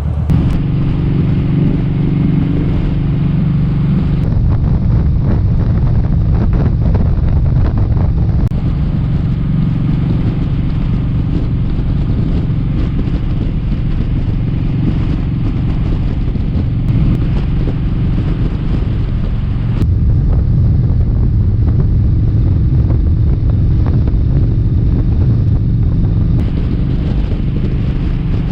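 Kawasaki Vulcan 1700 Vaquero's V-twin engine running steadily at highway speed, with wind rushing over the helmet microphone.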